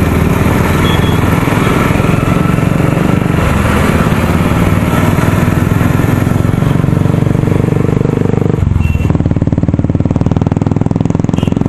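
Motorcycle engine running steadily while riding, its note changing about eight and a half seconds in.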